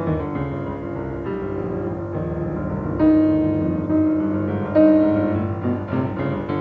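Solo piano playing classical music: held chords, with louder struck chords about three seconds in and again near five seconds.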